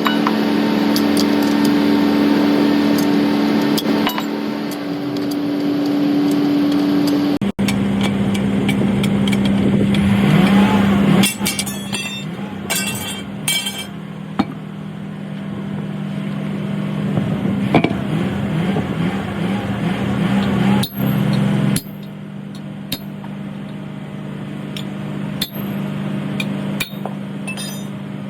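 Metal tools clinking and knocking against a truck wheel rim as a tube-type tyre is taken off, over a steady engine hum. The background changes abruptly twice.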